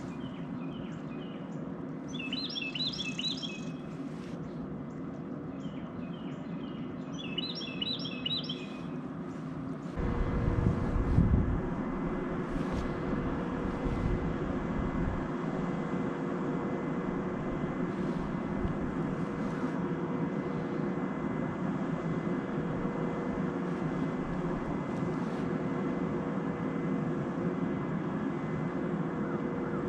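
A small bird twice gives a quick rattling run of chirps over a steady low hum. About ten seconds in, a louder steady noise starts, with a few low knocks at its onset, and runs on evenly.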